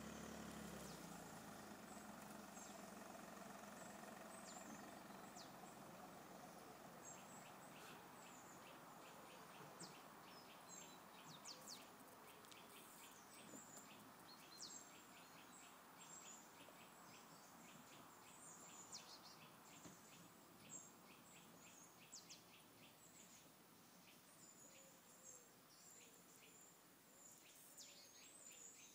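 Faint birdsong: many short, falling chirps over a soft outdoor hiss, thickest through the middle. A low engine hum fades out in the first second or two.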